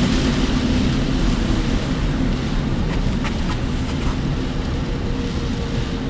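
Steady road and engine noise inside a car driving through typhoon rain and wind: a low drone under a constant hiss, with a few faint clicks about halfway through.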